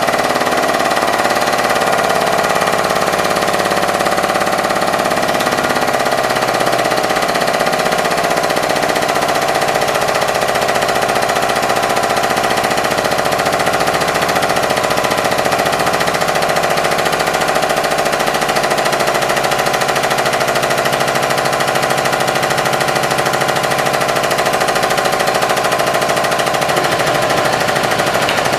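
Hydraulic press's pump motor running steadily with a fast, even rattle as the ram works on a toy truck.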